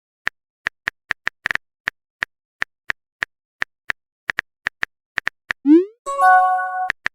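Phone keyboard typing clicks from a messaging app, short sharp taps at an uneven pace of a few a second. Near the end a quick rising pop is followed by a short chime of several steady tones, a message sent and received, and then the typing clicks start again.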